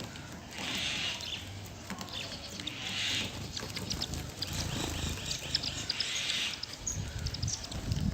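Sparrows feeding on foxtail millet seed: many short, high chirps and ticks, thickest in the second half, with three brief hissy rustling bursts.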